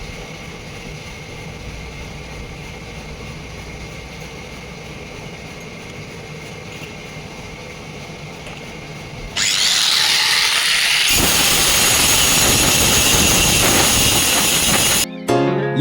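Sawmill machinery running with a steady hum, then about nine seconds in a loud, harsh saw-cutting noise starts and grows fuller about two seconds later before stopping abruptly near the end. Music starts right at the end.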